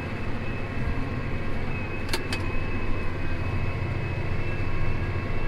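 Tractor engine running steadily, heard from inside the cab, with a thin steady whine above the low drone. Two sharp clicks come about two seconds in.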